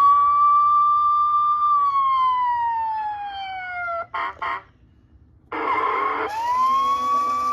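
Electronic siren effect from a Road Rippers toy fire truck's sound chip. The wail rises, holds, then winds down over a few seconds. A few short blasts follow, then a brief pause and a short noisy burst, and the siren winds up again near the end.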